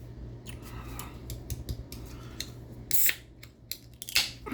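Small clicks and clatter of objects being handled at a table, with two sharper, louder noises about three and four seconds in.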